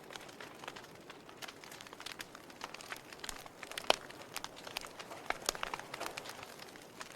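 Wood campfire crackling: irregular sharp pops and snaps over a soft hiss of burning, with one louder pop about four seconds in.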